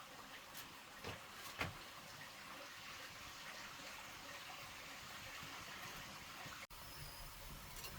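Faint, steady hiss of falling water, with a couple of soft clicks between one and two seconds in; the sound drops out abruptly near the end.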